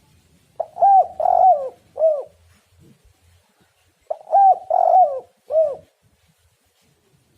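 Spotted dove cooing: two phrases of four notes each, the first starting about half a second in and the second about four seconds in.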